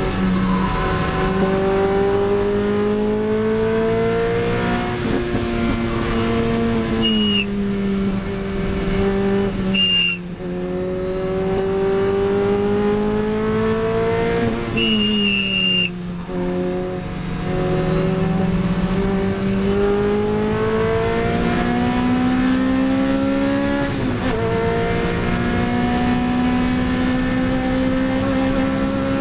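Lotus Elise 111R's four-cylinder engine heard from inside the cockpit under hard acceleration. Its pitch climbs, then drops back several times as the revs fall and build again. Short tyre squeals come around seven and ten seconds in, and a longer one about fifteen seconds in.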